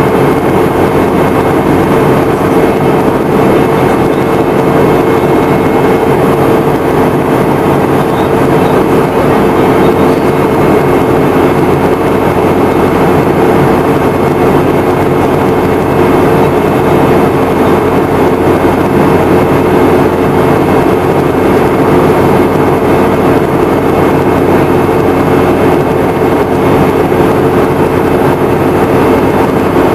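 Inside the cabin of a Boeing 717-200 in flight: its rear-mounted Rolls-Royce BR715 turbofans and the airflow make a steady loud drone, with a constant hum over the rushing noise.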